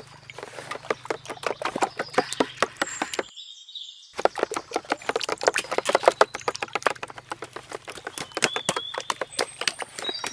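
Rapid, irregular clicking and tapping from handling or working food, cut off for under a second about three seconds in, with birds chirping briefly several times.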